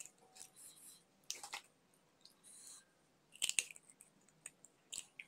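Mouth noises of someone eating fried chicken: chewing and biting with small wet clicks and smacks at irregular intervals, a sharper pair of clicks about three and a half seconds in.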